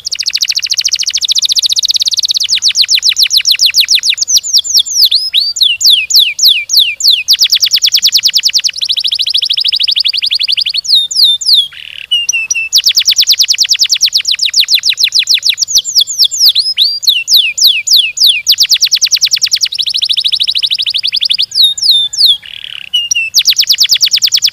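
Domestic canary singing a long, fast song of rolling trills: rapid strings of repeated notes in phrases that change every second or two, with a brief break about twelve seconds in.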